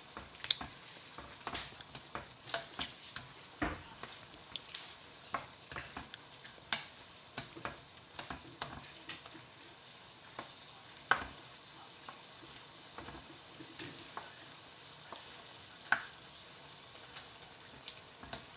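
Chicken wings sizzling in a wok of simmering sauce, with the clicks and scrapes of a spatula turning them against the pan. The knocks come often for the first half, then thin out to a few.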